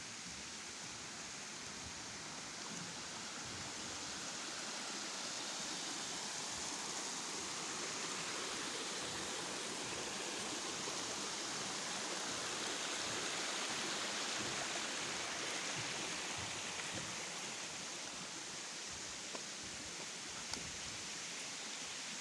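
Steady rush of flowing water, an even hiss that holds throughout.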